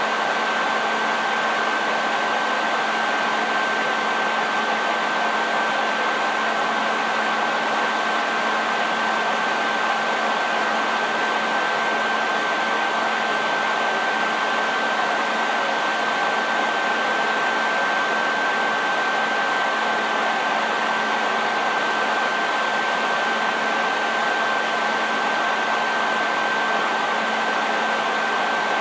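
Electric hair dryer running steadily: an even rush of blown air with a constant high whine from the motor and a low hum beneath, unchanging throughout.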